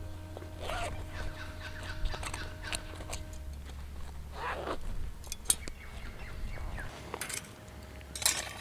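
Camping gear being handled: rustling and scattered sharp clicks, with short scraping sweeps about a second in and again near the middle, over a low hum that stops near the end.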